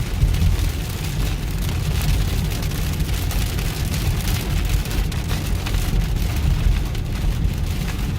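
Heavy rain pelting a car, heard from inside the cabin over the steady low rumble of the car driving on a wet road.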